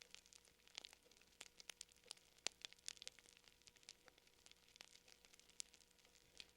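Faint fire crackling: irregular sharp pops and snaps, several a second, over a faint steady hum.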